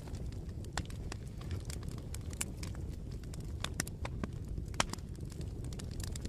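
Bonfire crackling: a steady low rumble of flames with frequent sharp pops and snaps, the loudest pop about five seconds in.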